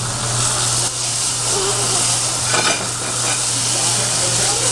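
Food sizzling on a hot teppanyaki griddle, a steady hiss with a steady low hum underneath. There is one sharp metallic tap about two and a half seconds in.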